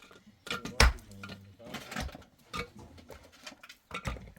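A few sharp knocks or thumps, the loudest about a second in, with faint low voices between them.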